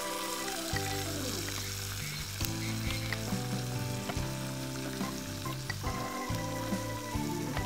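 Green chillies and onion sizzling steadily in hot oil in a clay pot, with background music underneath.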